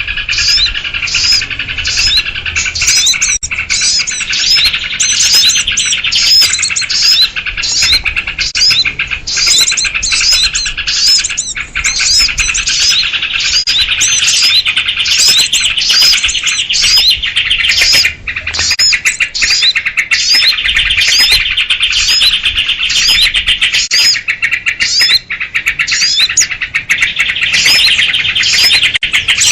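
Dense, continuous chorus of small songbirds chirping and calling over one another, built around sooty-headed bulbul (kutilang) calls, with short high chirps repeating about twice a second. It is an agitated 'ribut' lure recording used to draw in small wild birds.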